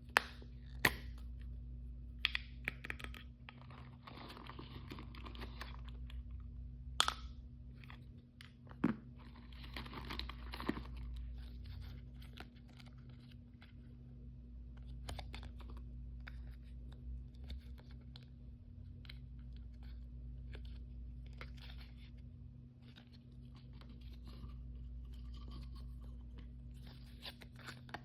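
Hands tearing open and crinkling plastic blind-bag and toy packaging, with many sharp clicks and crunches between two longer stretches of tearing a few seconds in and around ten seconds. A steady low hum runs underneath.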